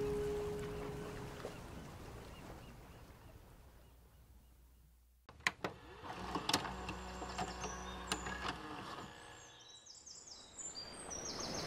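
Background music fading out, then outdoor ambience with a few sharp clicks and, in the last few seconds, small birds chirping in short high calls.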